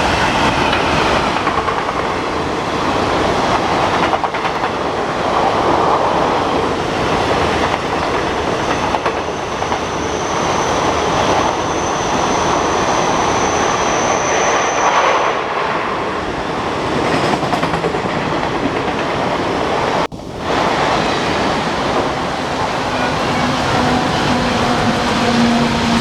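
Express passenger train running at speed, with wheels clattering over the rail joints under a steady rush of noise. A thin high squeal holds for several seconds in the middle, and a low steady hum comes in near the end.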